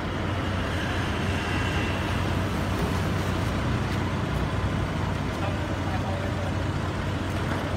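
Steady low hum of vehicle engines idling, unchanging throughout.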